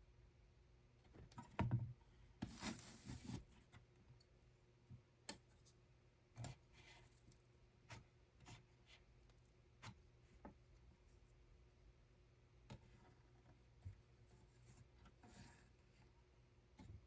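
Faint handling sounds: scattered light clicks and taps, with a short rustle about two to three seconds in, over a low hum.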